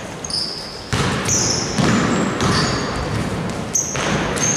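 Basketball court sounds: sneakers squeaking sharply on the floor several times, a ball thud about a second in, and general court noise.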